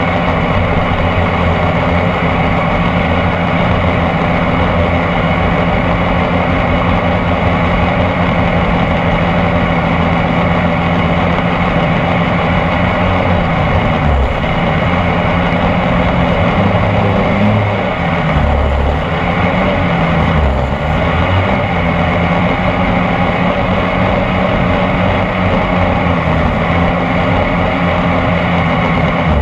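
26cc two-stroke petrol engine of a radio-controlled boat running steadily, its pitch dropping and picking up again a few times past the middle as the throttle is eased and opened.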